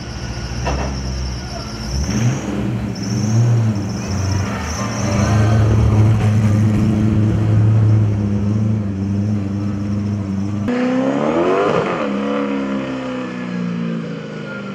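Drift car's engine revving hard, its pitch rising and falling with the throttle as the car slides through the corners. The sound changes abruptly about eleven seconds in to another pass, with quick revs up and down.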